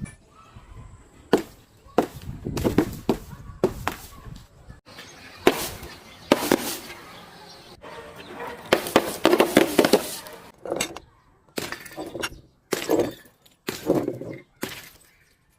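A series of sharp cracks and crunching breaks, some with glassy clinks: glass and other crunchy objects being smashed and crushed.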